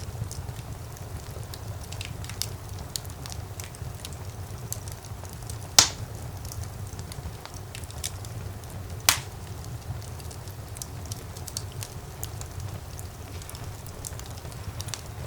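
Wood fire burning in a fireplace: a steady low rumble of flames with frequent small crackles and two louder pops.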